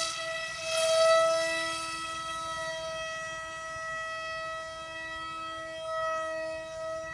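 Homemade aircraft's engine running at a steady speed: a steady, even-pitched whine that is loudest in the first second or so, then drops to a lower level and holds.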